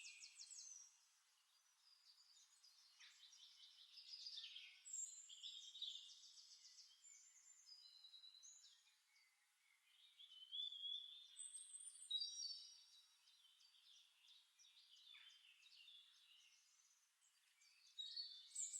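Faint birdsong: birds chirping and trilling on and off, with quiet gaps of a few seconds between phrases.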